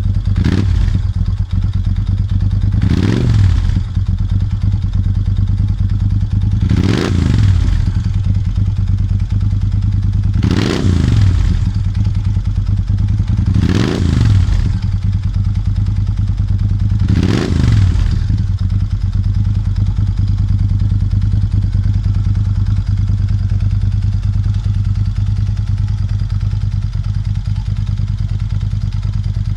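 Moto Guzzi V11 Scura's air-cooled V-twin idling through Mistral aftermarket exhausts, blipped six times in the first eighteen seconds, each rev rising and dropping straight back, then left to idle steadily.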